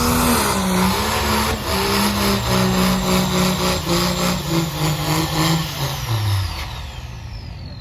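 Truck engine held at high revs, its pitch wavering in steps, then letting off and dropping about six seconds in. A thin falling whine follows near the end.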